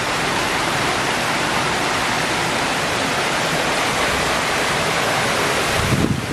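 Heavy rain pouring down in a steady, dense hiss during a downpour.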